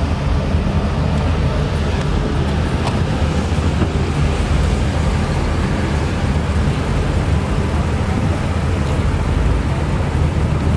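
A 6.0-litre LS2 V8 in a Chevrolet Caprice running steadily at low revs, giving an even, deep engine note as the car rolls slowly.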